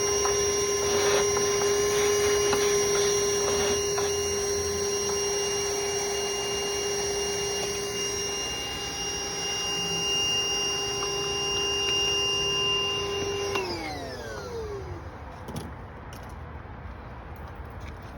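Vacuum cleaner running with a steady high whine, sucking loose dirt from around an engine's coil and spark plug well, with scattered clicks of debris early on. About 13.5 seconds in it is switched off and the whine falls in pitch as the motor spins down.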